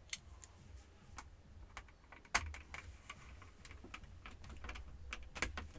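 Irregular small clicks and taps of a screwdriver working a screw on a Compaq F700 laptop's plastic case, the sharpest about two and a half seconds in and a few more near the end.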